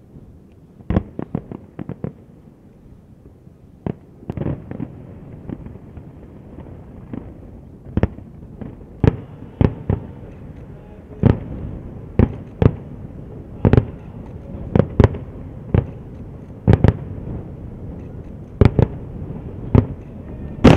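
Aerial firework shells bursting: a run of sharp bangs at irregular intervals, each trailing off in a rumbling echo. A quick cluster of cracks comes about a second in, and the bangs grow more frequent toward the end.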